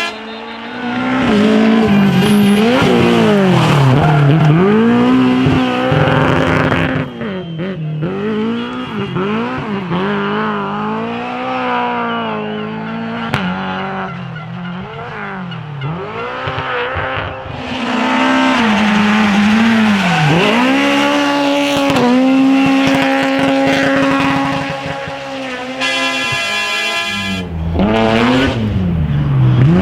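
Drift car's engine revving hard and dropping again over and over as the car slides, with tyre squeal. The pitch dips sharply and climbs back many times, sometimes holding high for a couple of seconds.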